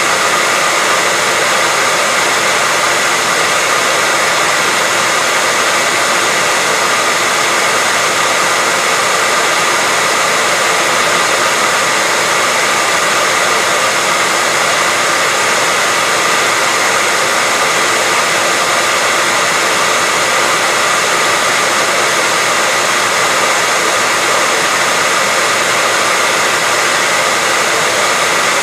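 Hair dryer running steadily: a constant, unchanging rush of blown air with a steady motor whine.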